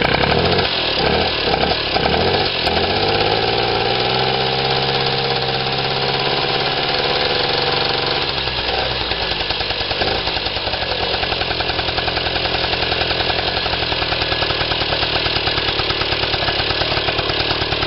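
Small two-stroke moped engine running just after a cold start, blipped up and down a few times at first, then held at a fast idle before dropping to a lower, rhythmic idle about eight and a half seconds in.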